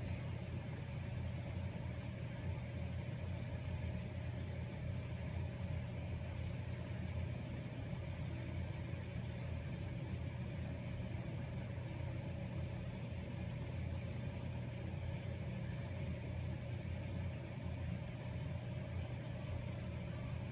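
Steady low hum of a car idling, heard from inside the cabin, with no change throughout.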